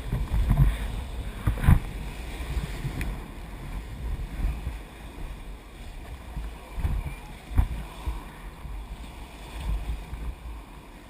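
Wind rumbling on the microphone over moving river water around a raft, with a couple of sharp knocks.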